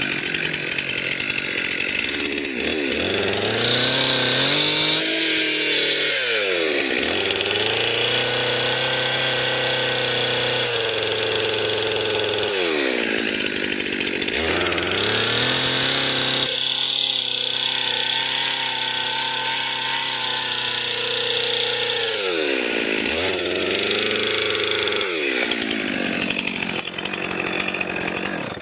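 Chainsaw cutting into a large tree trunk at high revs, its engine pitch dipping under load and climbing back several times during the cut. The saw cuts off abruptly near the end.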